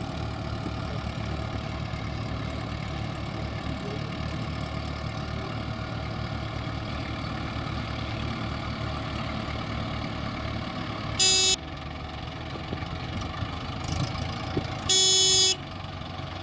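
Heavy diesel engine running steadily, with two short vehicle horn blasts about two-thirds of the way through and again near the end.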